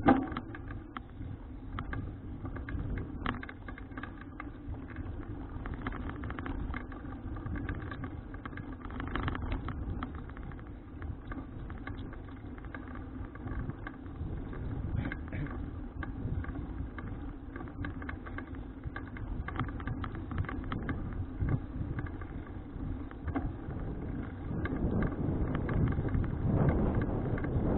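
Riding noise of a folding bicycle picked up by its mounted action camera: road rumble and wind with many small rattles and clicks, growing louder near the end.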